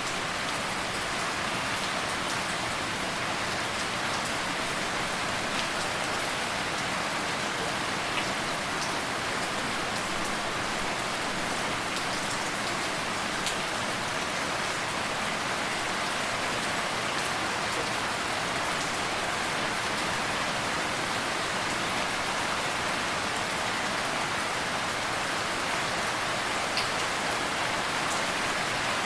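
Steady rain falling on a surface: an even hiss with a few distinct drops ticking through it.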